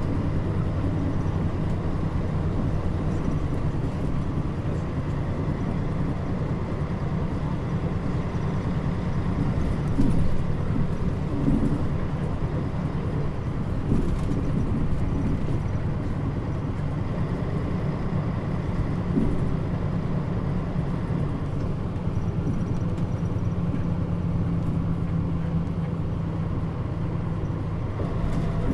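Mitsubishi Fuso Aero Star city bus (KL-MP35JM) running along at a steady pace, its diesel engine holding an even drone with road noise. A few short thumps about 10 and 14 seconds in.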